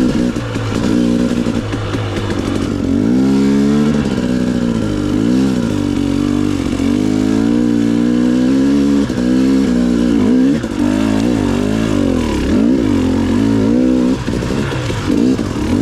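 Off-road vehicle engine running while ridden, its pitch rising and falling again and again with the throttle.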